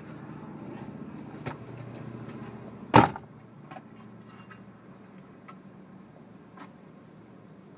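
Car engine idling with a low hum, with scattered light clicks and one loud sharp clack about three seconds in.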